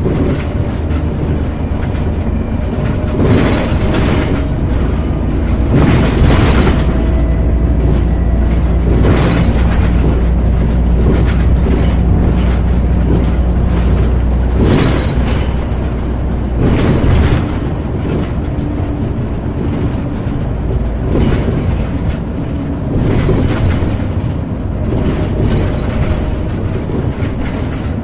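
Scania OmniCity single-decker bus heard from inside the cabin while under way: a steady engine and road drone that grows heavier through the middle and eases off about 17 seconds in, with several sharp knocks and rattles from the body.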